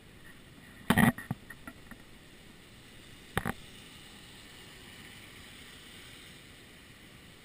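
Muffled knocks heard through a waterproof camera housing: a quick cluster about a second in and a single knock a couple of seconds later, over a faint steady background noise.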